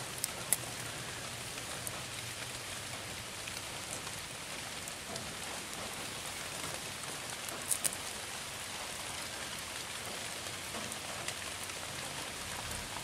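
Steady rain falling on leaves and wet ground, an even hiss of drops, with a couple of sharp taps about eight seconds in.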